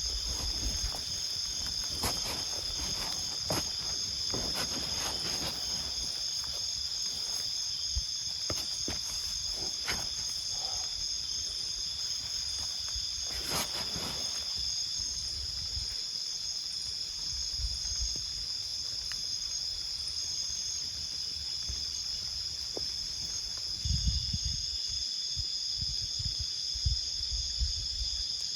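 Insects calling in a steady, unbroken high-pitched chorus of several tones. Scattered clicks and knocks sound through the first half, and a few low thumps come near the end.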